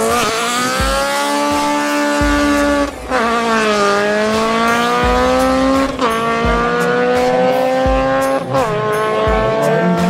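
Honda CRX drag car accelerating hard up the strip. Its engine note climbs steadily and drops back sharply at three upshifts, about three, six and eight and a half seconds in.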